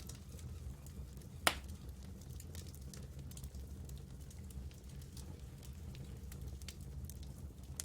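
Wood campfire crackling, with scattered small snaps and one loud pop about one and a half seconds in, over a low steady rumble.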